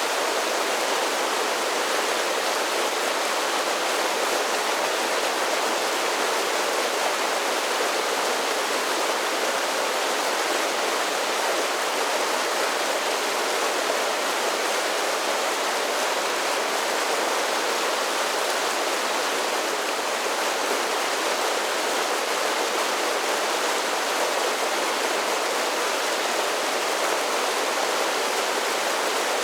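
Creek water rushing steadily over a series of small falls, a constant full splashing hiss with no breaks.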